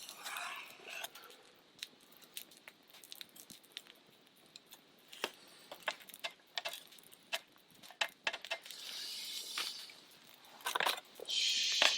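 Scattered light clicks and taps of dishes and utensils being handled on a camp table, with a brief rustle about nine seconds in and a louder crinkling rustle near the end.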